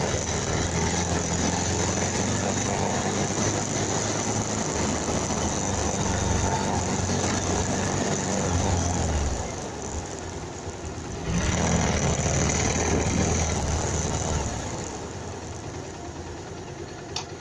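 Motorcycle engine running with road and wind noise: a steady low drone that fades about ten seconds in, followed by a louder rushing noise for about three seconds, then quieter running.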